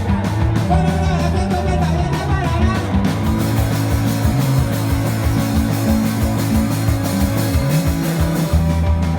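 A rock band playing live, with punk-rock drive from guitars, bass and drums. About three seconds in, the sound gets fuller and brighter, and it eases back just before the end.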